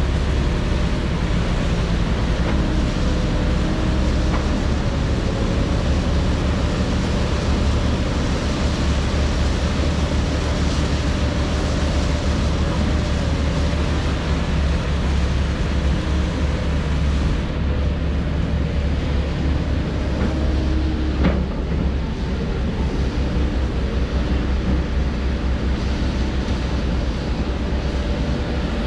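Heavy diesel construction machinery (excavator and dump trucks) running steadily, a constant low engine hum with a faint wavering whine above it. A single sharp knock about two-thirds of the way through.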